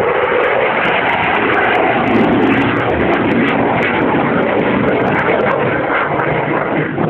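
Eurofighter Typhoon's twin EJ200 turbofan jet engines, a loud steady roar during a display flight, with some crackle from the overloaded microphone.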